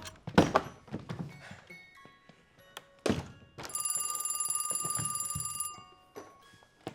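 A few knocks, then a bell ringing rapidly and steadily for about two seconds, like an alarm bell going off.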